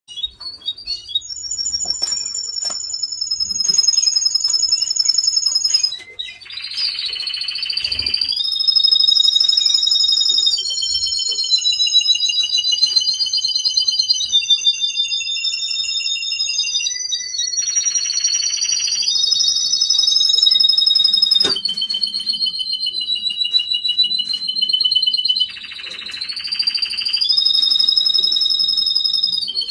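Male domestic canary singing one long, unbroken song of rapid high trills that step from pitch to pitch. Three harsher, buzzier rolls come in along the way.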